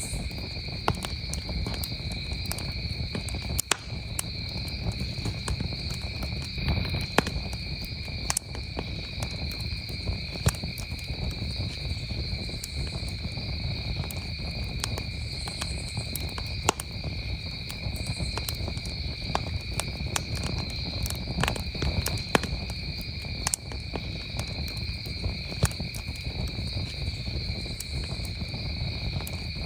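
Campfire crackling, with sharp pops at irregular intervals and a low rumble from the burning wood, over a steady unbroken trill of crickets.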